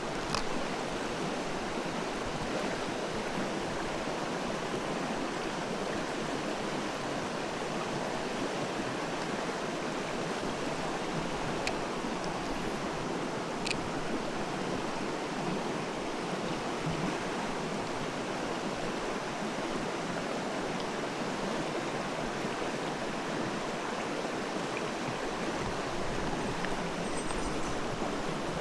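Mountain stream water rushing steadily over rocks, an even, unbroken noise.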